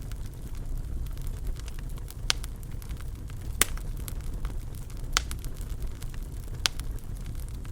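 Wood fire crackling in a fireplace: a steady low rumble from the burning, with sharp pops from the wood. Four louder pops come roughly a second and a half apart, with fainter ticks between.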